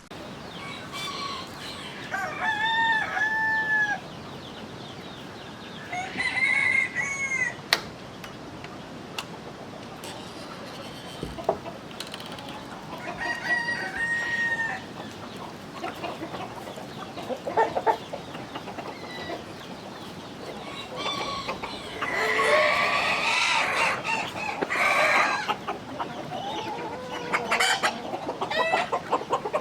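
Flock of free-range chickens clucking and calling, with drawn-out pitched calls several times, some of them rooster crows.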